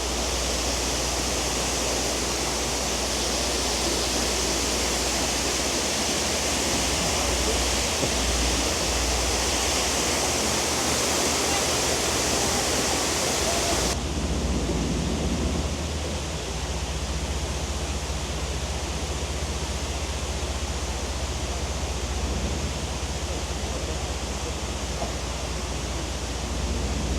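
Waterfall rushing close by, a steady loud hiss of falling water over a low rumble. About halfway through, the higher part of the hiss drops off suddenly.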